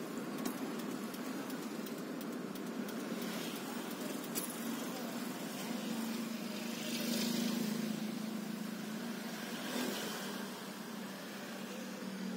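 Engine and road noise of a 1991 Suzuki Esteem heard from inside its cabin while driving: a steady hum that grows louder for a few seconds around the middle, then eases off near the end.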